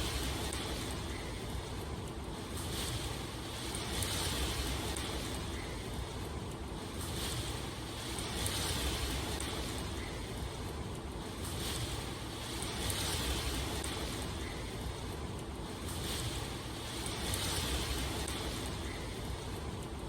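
Steady rushing hiss of water, swelling and easing about every two seconds.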